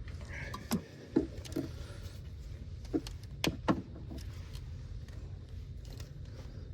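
A few sharp clicks and knocks, about six in the first four seconds, over a steady low hum: hands and tools at work on engine parts during an ignition coil swap.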